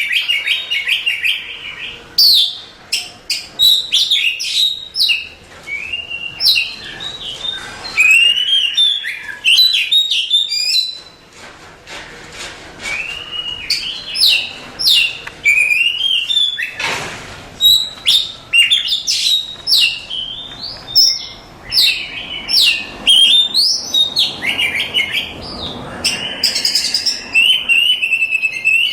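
Oriental magpie-robin singing a fast, varied song of loud whistles, sweeping notes and rapid trills with short pauses between phrases.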